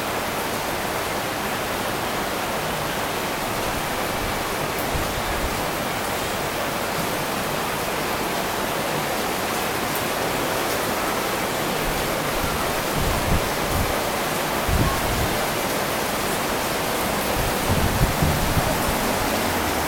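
Pouring rain: a steady, even hiss of heavy rainfall, with a few low thumps in the second half.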